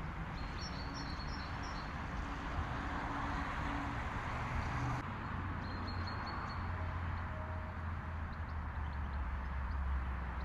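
Outdoor town ambience: a steady hum of distant traffic, with a low rumble growing in the second half, and a small bird chirping in short quick runs of notes, once near the start and again about six seconds in.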